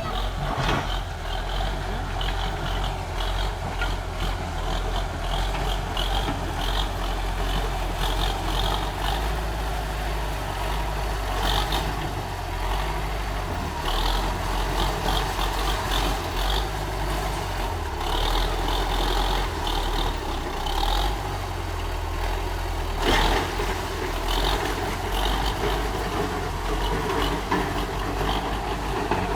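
DT-75 crawler tractor's diesel engine running steadily under load, with repeated short high-pitched squeaks and clanks on top, and one sharp knock about two-thirds of the way through.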